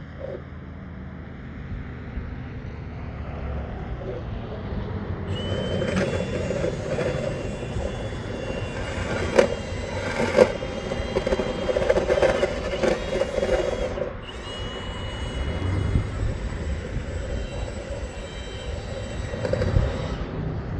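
Power-driven rotary dryer-vent cleaning brush spinning inside the duct: a steady motor whine with rattling and scraping, and two sharp knocks about nine and ten seconds in.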